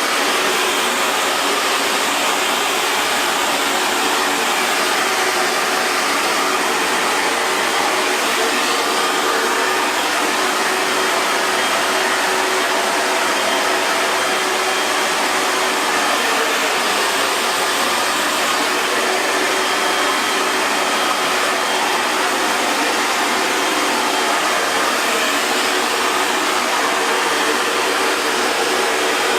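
Hair dryer running steadily: a constant rush of blown air with a faint motor hum beneath it.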